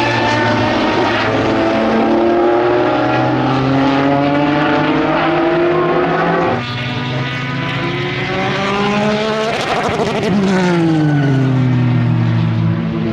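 Jaguar XJR-11's 3.5-litre twin-turbocharged V6 race engine running hard at speed, its pitch climbing as it accelerates. There is an abrupt change about six and a half seconds in, then a loud peak near ten seconds in, after which the pitch falls.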